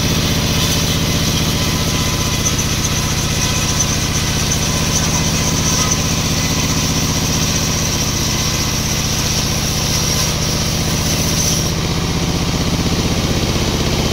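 A sawmill's engine running steadily at a constant speed. A thin high-pitched whine above it cuts off suddenly near the end.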